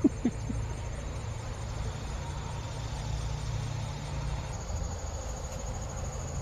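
Steady high-pitched insect trill outdoors, coming in about two-thirds of the way through, over a low steady rumble.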